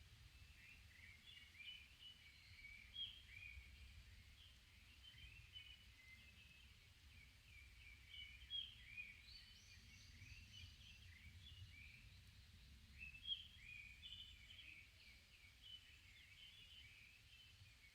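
Forest birds chirping, with many short notes sliding up and down that overlap, and a higher, thinner run of notes near the middle. A faint low rumble lies underneath.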